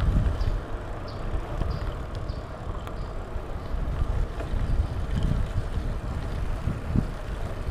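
Wind buffeting the microphone of a camera on a moving bicycle: an irregular low rumble that swells and dips in gusts, with faint short high chirps over it.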